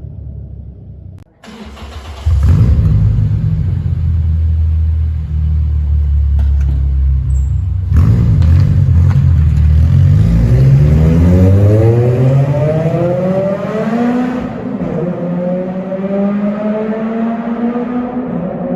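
Toyota Celica ZZT231's 2ZZ-GE four-cylinder engine heard through a one-off exhaust, an HKS Silent Hi-Power with its silencer section cut off. After a brief dip about a second in, it holds a loud, steady low drone. About ten seconds in the revs climb, with a break near fourteen seconds like a gear change, and then they climb again more slowly.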